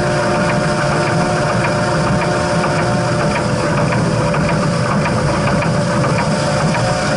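Steam train running steadily: a loud continuous mechanical rumble with a few steady tones and faint regular ticks.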